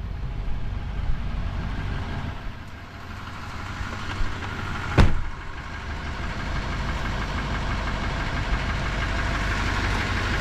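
Motor vehicle engine idling steadily, with one sharp thump about five seconds in.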